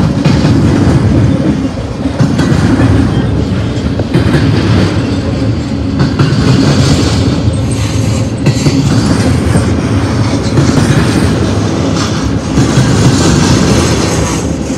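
Intermodal freight cars rolling past at close range: a loud, steady rumble of steel wheels on the rail, with repeated clicks as the wheel trucks go by.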